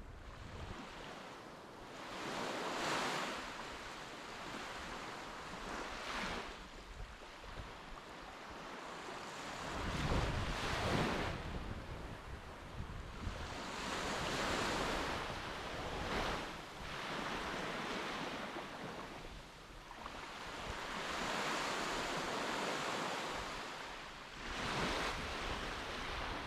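Waves washing on the shore, rising and falling in swells every few seconds, with wind buffeting the microphone, heaviest about ten seconds in and near the end.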